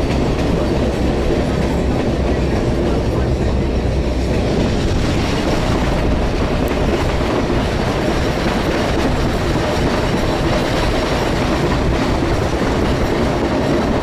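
PeruRail passenger train running along the track: a steady noise of wheels on rails, heard through an open carriage window.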